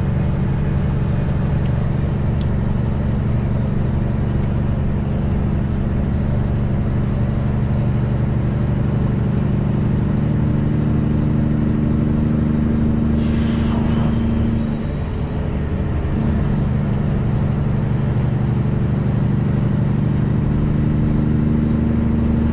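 Straight-piped heavy truck's diesel engine running steadily while driving on the highway. A short hiss comes about thirteen seconds in, and the engine note dips briefly just after before settling again.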